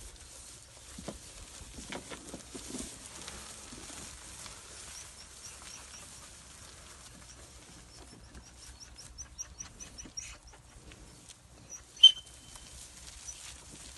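Pasture ambience: a small bird chirps repeatedly, high and short, about two chirps a second through the middle, over a low rumble of wind on the microphone. One brief, sharp, high-pitched sound about twelve seconds in is the loudest thing.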